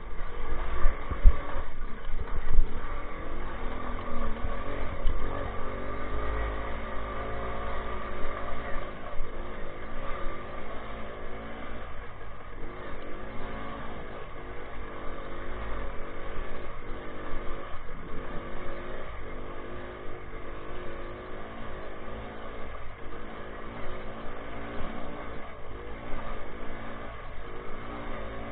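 Minsk two-stroke single-cylinder motorcycle engine running under way, revving up and down over and over. There are a few knocks and a low rumble in the first few seconds.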